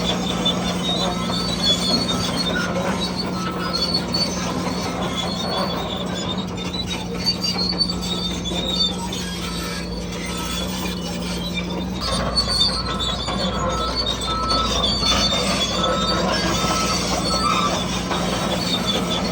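Steady whine and grinding from the small electric motors and gearboxes of radio-controlled construction machines working, with intermittent higher squealing tones.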